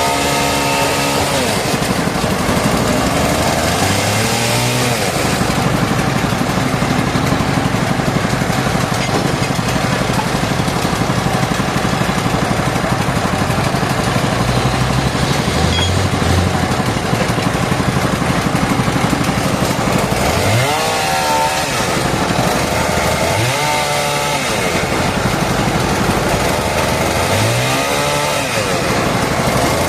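Chainsaw cutting through wood, its engine revving up and falling back several times, with a long steady stretch of cutting in the middle.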